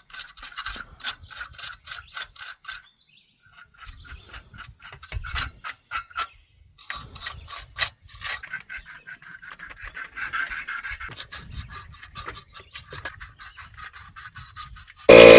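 Rapid scratchy rubbing and scraping strokes with light clicks, pausing briefly twice, as the igniter and flame rods of a tankless water heater are scrubbed clean. At the very end a loud motor starts abruptly.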